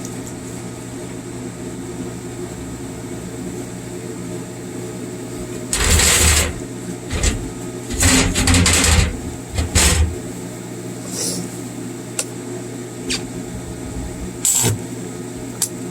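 Stick welder humming steadily while a 7018 electrode is struck to an arc, giving several short bursts of crackle, the longest lasting about a second.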